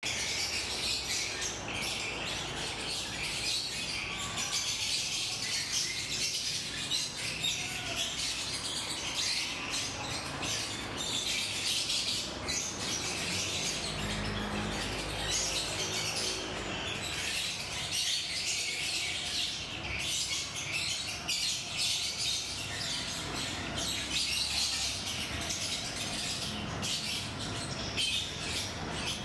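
Small birds chirping continuously in a dense, busy chorus, with a brief low hum about halfway through.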